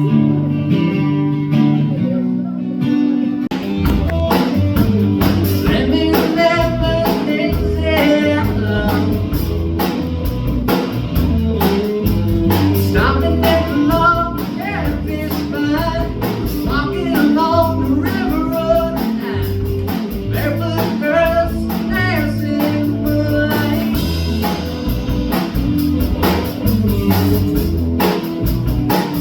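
Live band playing: guitar alone for the first few seconds, then bass and drums come in and the full band plays on with a melody line over the top.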